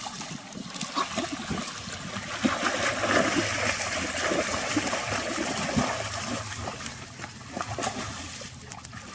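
Water splashing and trickling, with many small splashes, louder through the middle few seconds.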